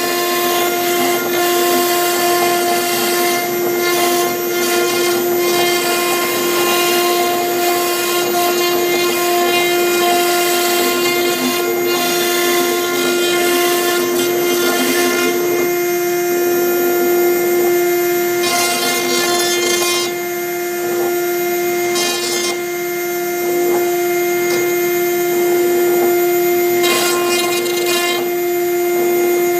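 CNC router spindle whining at a steady pitch while a V-bit engraves MDF, with a rough cutting hiss over it. The hiss eases off twice past the middle, for a few seconds each time, while the whine keeps going.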